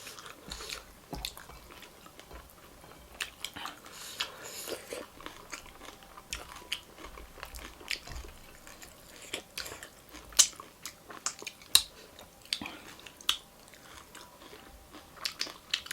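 Chewing and crunching food close to the microphone: irregular crisp crunches and mouth clicks, the loudest about ten and a half and twelve seconds in.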